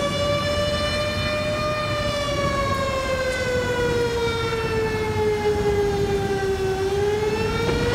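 Outdoor civil defense warning siren sounding a wail for a tornado emergency. Its pitch falls slowly for about five seconds, then starts rising again near the end, over a steady background hiss.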